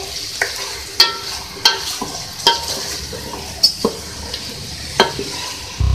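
Chicken pieces and chopped tomatoes frying in oil in a pot with a steady sizzle, being fried until the tomatoes go soft. A wooden spoon stirs them and knocks sharply against the pot several times.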